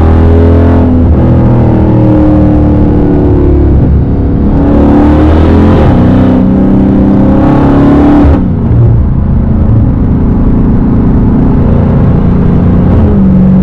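Dodge Hellcat's supercharged V8 with a straight-piped exhaust, loud, revving through several rising pulls as it accelerates and shifts. It drops off suddenly about eight seconds in, then settles into a steadier lower drone.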